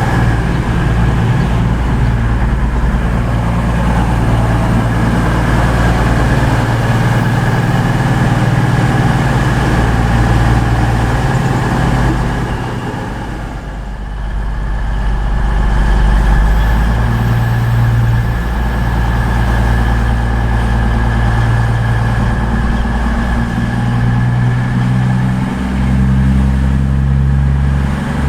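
Diesel train engine running loudly and steadily, its pitch shifting a few times, with a brief drop in level about halfway through.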